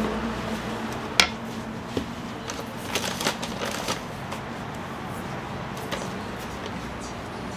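Kitchen clatter: a few sharp clicks and knocks, bunched in the first half, over a steady background hiss.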